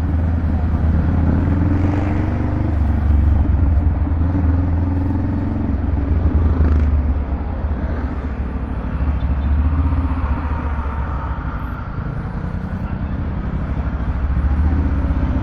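Honda Rebel 500's parallel-twin engine running through a Vance & Hines exhaust, a steady deep low rumble whose loudness swells and eases a little.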